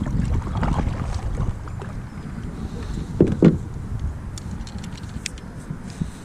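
Handling and hull sounds aboard a fishing kayak on the water: a low rumble, with two sharp knocks about three seconds in and a few light clicks.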